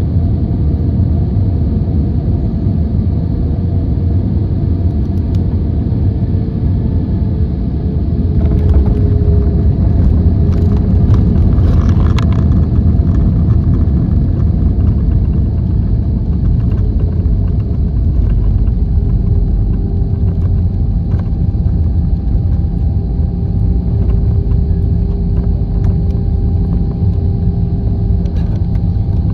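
Steady low rumble of a Boeing 737-800's CFM56 jet engines and airframe, with a faint engine tone that dips slightly in pitch. It grows a little louder for a few seconds about eight seconds in, with some light rattling.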